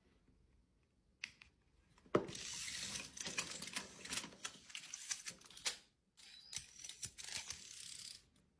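Close, rapid clicking and rattling of small hard objects being handled, in two busy stretches broken by a brief pause about six seconds in.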